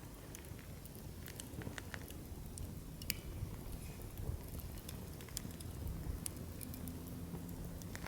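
Wood campfire in a fire stand burning, with scattered sharp crackles and pops from the logs over a steady low rumble.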